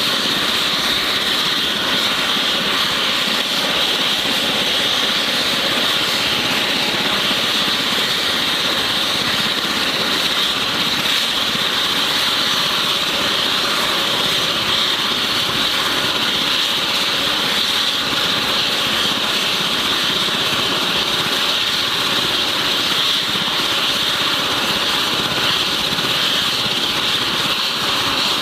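Steady engine noise with a high whine, holding the same level throughout.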